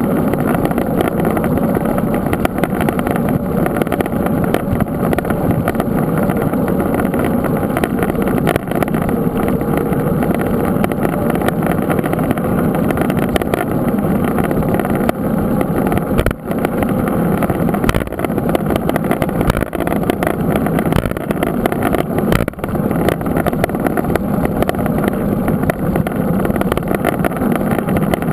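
Steady, loud rushing rumble of wind and tyre noise on a camera carried on a moving mountain bike, with a few brief dips.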